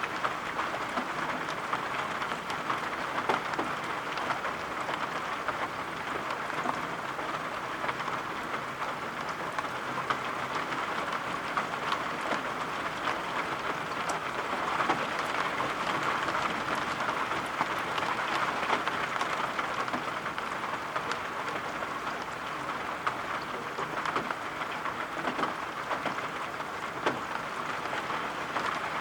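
Steady rain, an even hiss with many small sharp ticks scattered through it.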